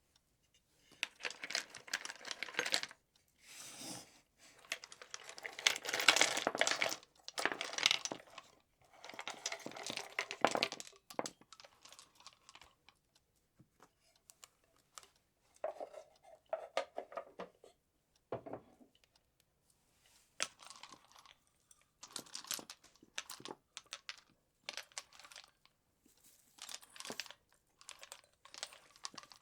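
Christmas tree and decorations being handled: bursts of rustling and crinkling, with light clicks and taps between them.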